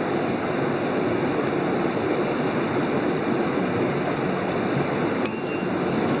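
Mountain stream rushing over rocks: a loud, steady rush of water, briefly dipping about five seconds in.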